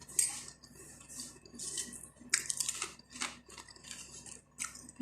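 Irregular crunches and crackles of a crunchy snack being eaten close to the microphone.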